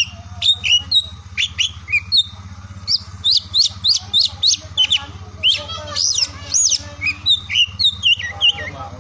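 Oriental magpie-robin (kacer) singing a fast, varied run of whistled notes, chirps and sweeping phrases, over a steady low hum.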